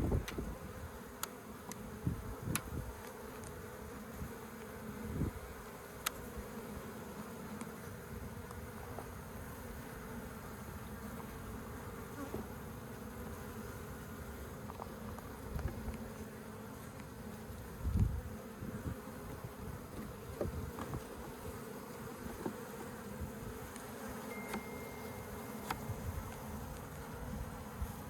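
Honey bees buzzing steadily in a dense, continuous drone around an opened colony. A few soft knocks from handling the hive parts are scattered through it, with one louder thump about eighteen seconds in.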